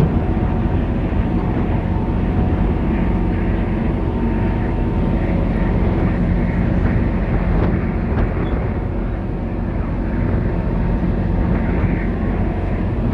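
Steady low drone of a car ferry's diesel engines running underway, with a constant hum and a rushing noise over it.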